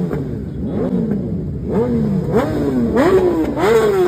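BMW S1000RR's inline-four engine revved while standing still, in quick blips about twice a second, each rising and falling in pitch, getting louder about three seconds in.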